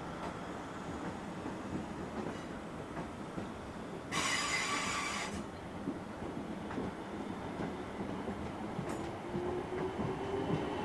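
Train running along the tracks with a steady rumble. About four seconds in there is a high squeal lasting about a second.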